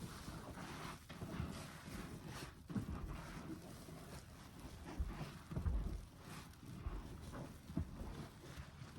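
Soapy foam sponge squeezed and released by hand over and over: irregular wet squelching and squishing with soft low thuds, the loudest around the middle.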